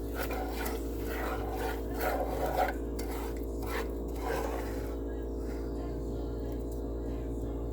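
Cinnamon-sugar mixture being scraped into a bundt pan over chopped walnuts: a run of short rasping scrapes over the first four seconds or so, then only a steady background hum.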